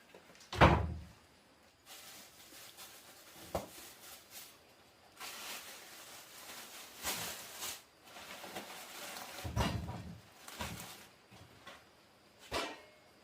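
Handling noises: a heavy thump about half a second in and another near ten seconds, with a few lighter knocks and some rustling or scraping between them.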